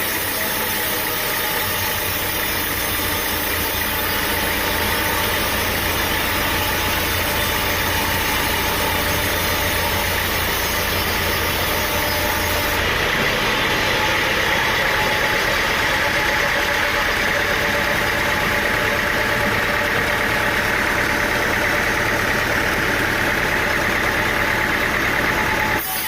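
An engine running steadily under machinery noise. About halfway through, the low rumble drops away and a higher hiss grows louder.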